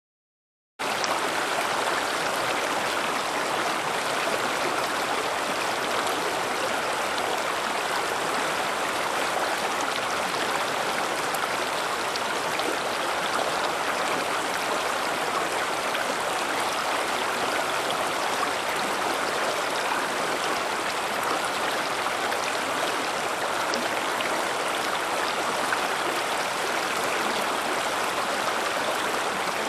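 River water flowing and splashing over rocks in a steady rush that starts suddenly about a second in.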